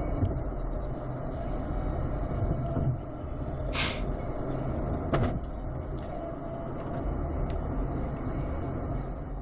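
Steady low rumble and road noise of a moving vehicle. A short sharp hiss comes about four seconds in, and a brief click follows about a second later.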